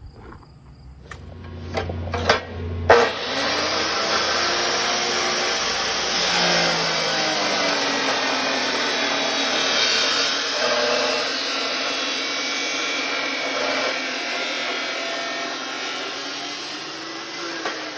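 A power tool cutting through metal: a few knocks, then from about three seconds in a steady, loud cutting noise with the motor's pitch wavering under load, easing off near the end.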